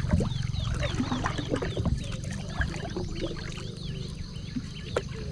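Animal calls: a run of short, high, falling chirps repeating quickly, over a low steady rumble, with a sharp click about five seconds in.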